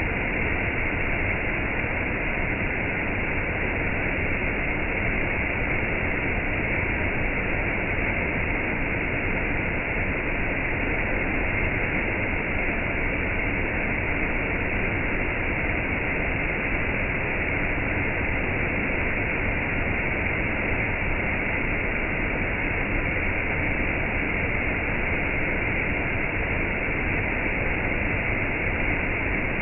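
Steady, unbroken rush of falling water from gentle rain and a waterfall.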